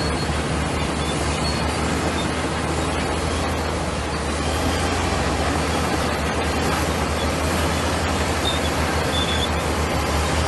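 Komatsu bulldozer's diesel engine running steadily under a continuous low drone, with faint ticks over the top.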